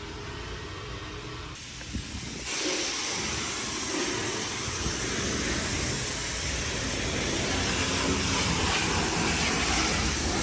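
A car wash pressure wand starts spraying water onto a car about two and a half seconds in, giving a steady hiss of spray.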